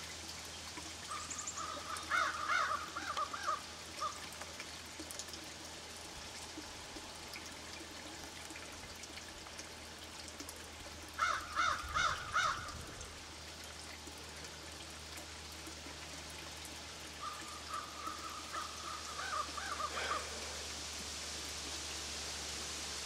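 A bird calling in three bouts of short, repeated calls spaced several seconds apart, over a steady hiss.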